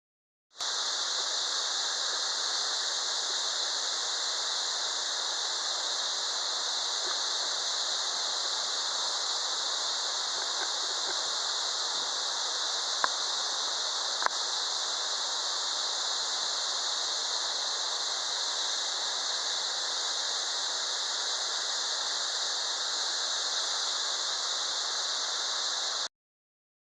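Steady, unbroken rushing of a 100 m plunge waterfall falling into its pool, with a strong high hiss over a lower rush; two faint clicks near the middle.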